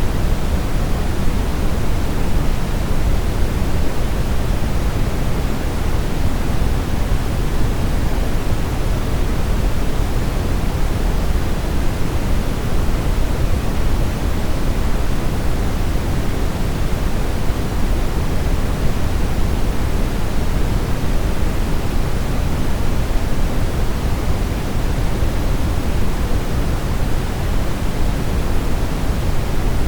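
Steady brown noise: a constant, deep rushing hiss with most of its weight in the low end, unchanging throughout.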